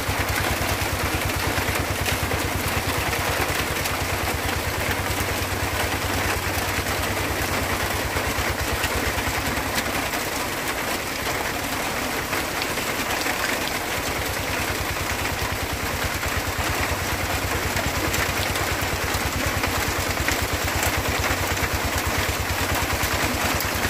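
Paddy-field tractor engine running steadily with a rapid, even chugging, easing off a little about ten seconds in and picking up again a few seconds later.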